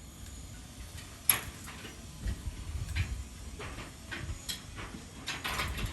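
Irregular sharp knocks and clicks of construction work, with the sharpest knock about a second in, over a low background rumble.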